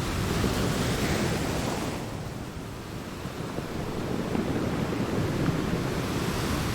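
Ocean waves breaking on a shore: a wave's hiss fades out about two seconds in, then the next surge builds back up toward the end.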